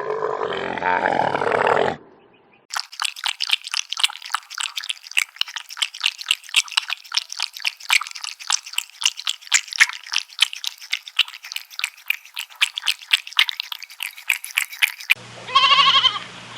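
A sequence of animal calls. A loud, low call lasts about two seconds. After a short gap comes a long run of rapid, high chirping or clicking calls, and near the end a bleating call begins.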